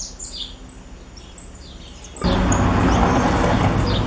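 Small birds chirping. About two seconds in, a loud steady rushing noise starts abruptly and drowns them out.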